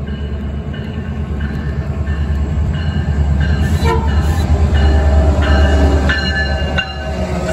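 Metrolink diesel-electric locomotive pulling into the station and passing close by: a heavy low engine rumble that grows louder, peaking about five to six seconds in, with high ringing tones coming and going over the second half.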